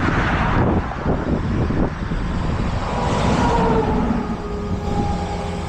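Steady vehicle noise of highway traffic, with a passing vehicle swelling louder about three seconds in.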